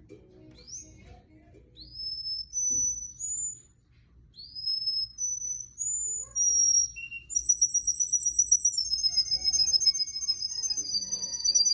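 Russian canary singing: a run of short high whistled notes, several of them rising, then from about seven seconds in a fast rolling trill held at one high pitch that steps down twice.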